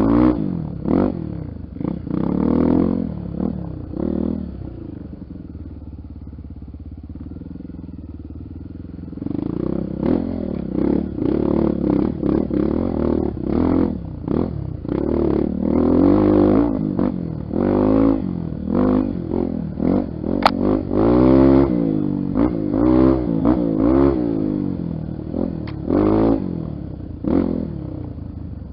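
Honda XR 250 Tornado's single-cylinder four-stroke engine being ridden, revving up and down again and again, with a quieter, steadier stretch from about five to nine seconds in. A single sharp click about twenty seconds in.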